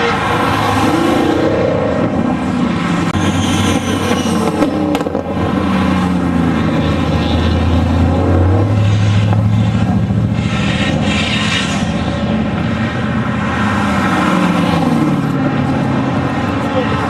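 Loud performance car engine running hard, its pitch rising and falling repeatedly as it revs up and down.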